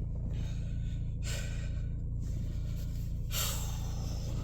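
Two short, sharp breaths, about a second in and again past three seconds, over a steady low hum.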